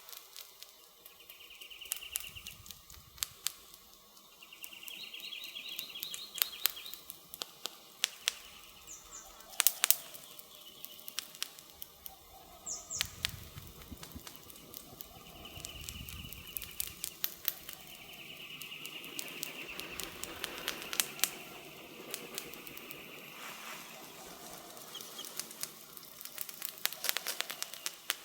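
Wood fire crackling, with irregular sharp pops throughout. Birds chirp in the background, and a soft low rumble swells for a few seconds in the middle.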